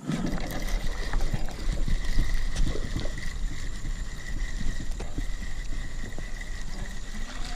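Knocks and handling noise on a fishing kayak over a steady low rumble, with a faint steady high whine throughout.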